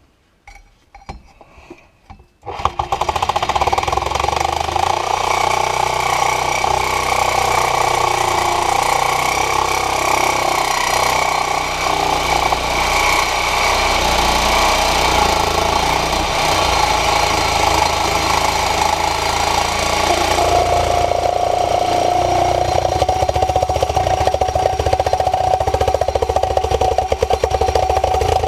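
Reciprocating saw cutting, starting after a few light clicks about two and a half seconds in and then running continuously with a rapid chatter. A steadier whine joins it about twenty seconds in.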